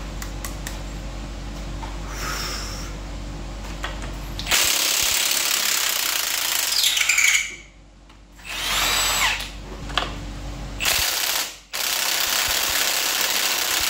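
Power tool running in four loud bursts of one to three seconds each, starting about four and a half seconds in, with short pauses between them; before the bursts, a steady low hum.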